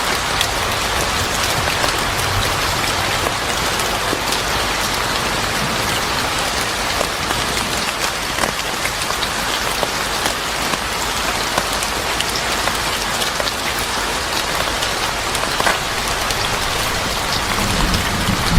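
Steady heavy rain falling on a surface, a dense even hiss flecked with small scattered ticks. A low rumble sets in near the end.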